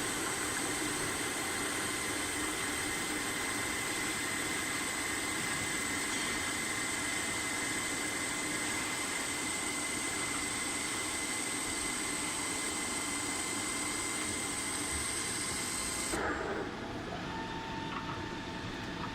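CNC double-head milling machine running, a steady hiss of machining with high, even whining tones. About 16 seconds in the sound changes abruptly: the hiss drops away and a quieter hum with a single steady tone remains.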